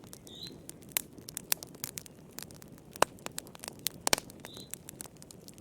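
Wood fire crackling in a fireplace: irregular sharp pops and snaps over a low steady rustle of burning, with louder pops about three and four seconds in. A faint short bird chirp sounds twice.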